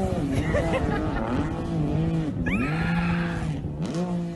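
An engine revving, its pitch holding and then dropping and rising again several times, with a quick upward sweep about halfway through.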